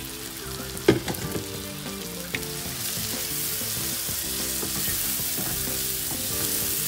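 Sliced onions with ginger-garlic paste frying in oil in a non-stick pan, sizzling steadily as a wooden spatula stirs them. There is a sharp utensil knock about a second in, and the sizzle grows louder from about three seconds in as the paste is worked into the hot oil.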